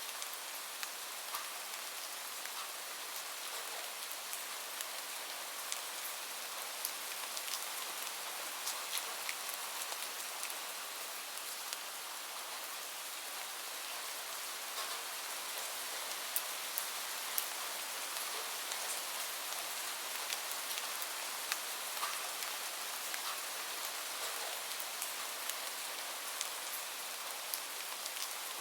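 Gentle rain falling steadily, an even hiss, mixed with a crackling fireplace that gives scattered sharp crackles and ticks.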